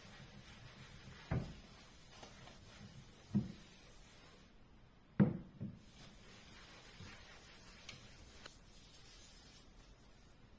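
A few soft knocks and thuds of household things being handled during cleaning, the loudest a little after halfway, with two faint clicks later on.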